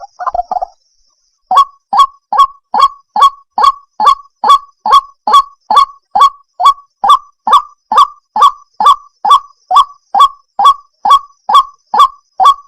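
White-breasted waterhen calling, a fast, even series of short honking notes, about three a second, starting after a brief pause about a second and a half in.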